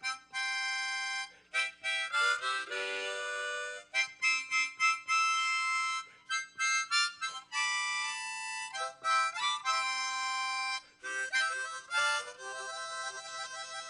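Solo harmonica playing a tune, held chords and notes in short phrases with brief breaths between them.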